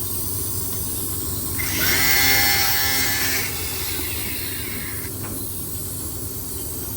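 A handheld power tool runs for about two seconds, rising in pitch as it spins up, while working on a bolt that holds a bucket on the grain leg belt. A steady hiss continues underneath.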